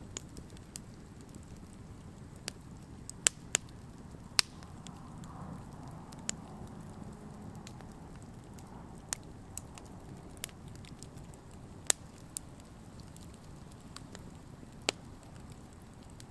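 Wood campfire burning: a steady low hiss and rustle of the flames with sharp, irregular crackles and pops from the wood, the loudest about three, four and a half and twelve seconds in.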